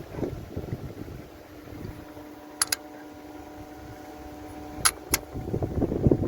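Metal parts and hand tools clinking during engine assembly: two quick pairs of sharp clicks, with rustling handling noise near the start and again near the end, over a faint steady hum.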